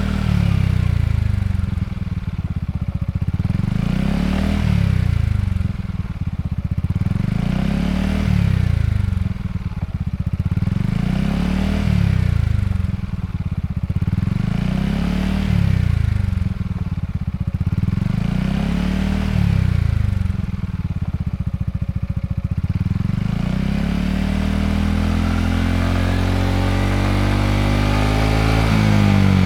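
A Yamaha XMAX scooter's single-cylinder engine exhausting through a Yoshimura Cyclone slip-on muffler, revved in about seven short throttle blips roughly every two seconds. Near the end the revs climb in one long, steady rise.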